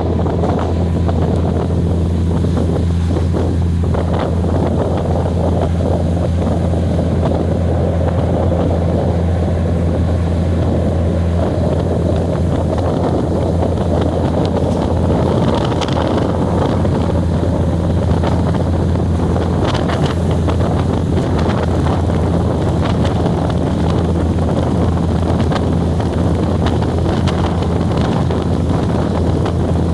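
Steady low drone and rumble of a moving passenger train, heard from on board, with wind buffeting the microphone and scattered faint clicks.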